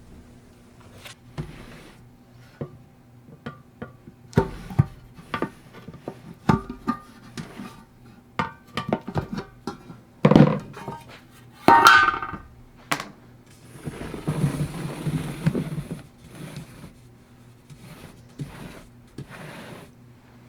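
Irregular knocks and clanks, like metal parts and tools being handled and set down, a few of them ringing briefly, with a rough scraping or rushing noise for about two seconds past the middle, over a steady low hum.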